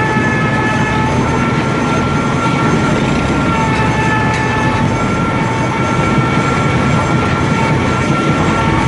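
Mobile log debarker running and stripping bark from a log: a steady grinding noise with a high whine whose pitch shifts slightly a few times.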